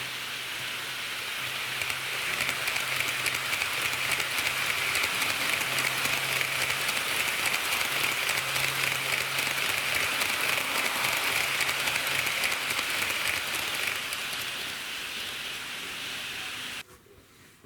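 HO-gauge model diesel railcars running on model track: a steady rushing hiss of metal wheels on rail with rapid fine clicking, under a faint motor hum. It grows louder as the train comes close, eases off later, and cuts off abruptly near the end.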